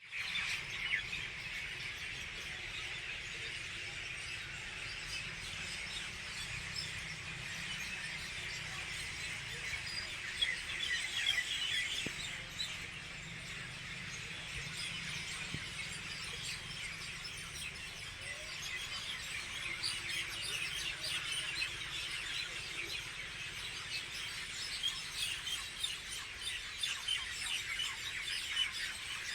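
A large flock of birds gathered in one place, chirping and calling all at once in a dense, constant chatter of high, short notes.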